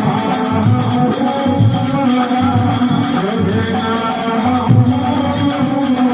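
Rajasthani devotional bhajan music, an instrumental passage with steady jingling percussion.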